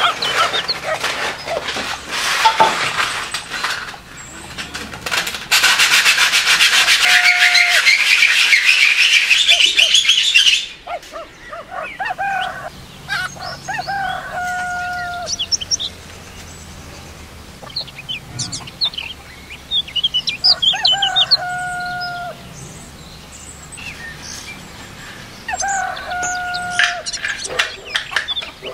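600-grit sandpaper rubbing against a light bulb's metal base: a rough scratching, loudest and most continuous for about five seconds in the first half. Later, birds chirp, with repeated short whistled calls.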